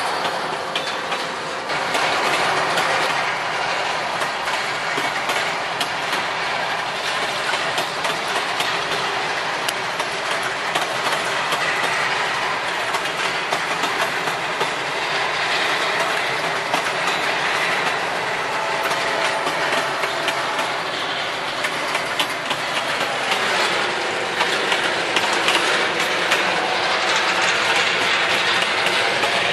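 Freight train wagons rolling past on the track: a steady clatter of steel wheels on the rails, full of rapid clicks and knocks.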